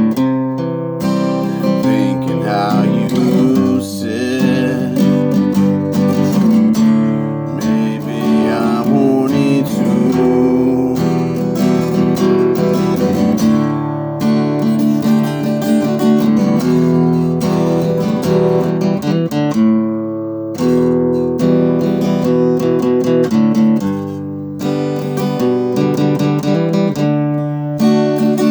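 Acoustic guitar strumming a steady song accompaniment, with a voice singing over it at times.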